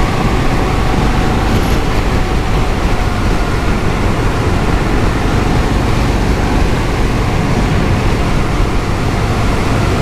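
Harley-Davidson Fat Bob's Milwaukee-Eight 114 V-twin running steadily at road speed under heavy wind and road noise, a sound the rider feels is not right.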